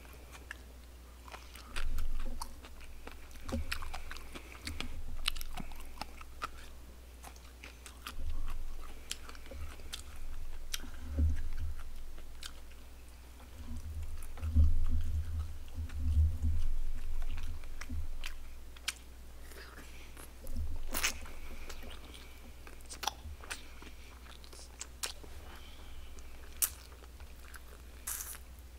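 A man chewing and biting barbecued pork close to a microphone: wet chewing and crunching, with many short clicks and a few low thumps near the middle.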